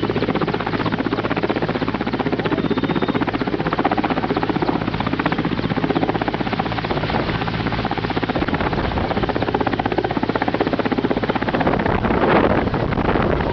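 Mil Mi-17 helicopter running loud and steady: its twin turbine engines and main rotor, with a fast even blade beat. Near the end a gust of wind noise rushes over the microphone.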